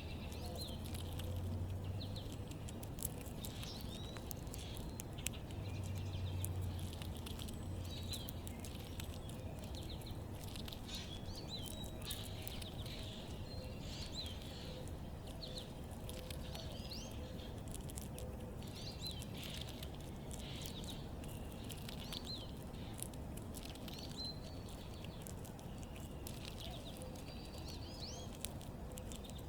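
Small backyard birds chirping with many short, repeated calls, among light clicks and taps. A low rumble comes and goes twice in the first several seconds.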